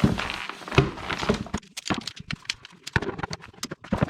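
A lightweight folding camp chair being set up: quick, irregular clicks and knocks of its frame, with some rustling near the start.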